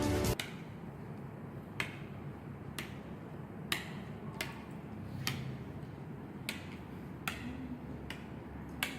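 Go stones being set down on a board: about eight sharp single clicks at uneven intervals, a second or so apart.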